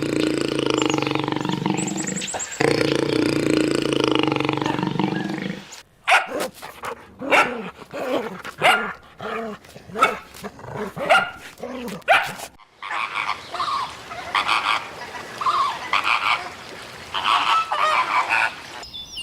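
Animal calls: one long drawn-out call for about the first six seconds, then a dog barking over and over in short barks. After a break the barks and yelps carry on in a second run.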